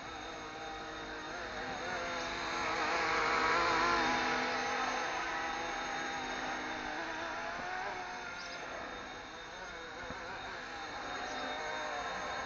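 RC ERA C189 MD500 scale RC helicopter in flight: its motor and rotor whine as a steady stack of tones with a slightly wavering pitch, getting louder about three to four seconds in and easing off after.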